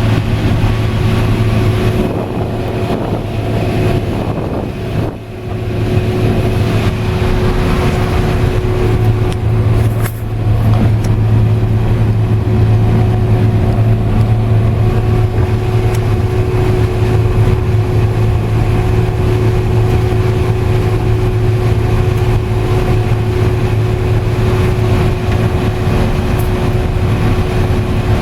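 Combine harvester running steadily under load while harvesting corn: a constant engine and threshing drone with a steady hum. It dips briefly twice, about five and ten seconds in.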